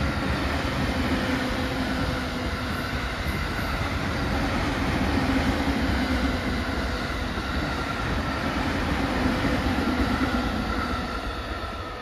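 A commuter electric multiple-unit train passing close at speed: a steady rush of wheels on rail with a steady motor hum, fading near the end as it runs away.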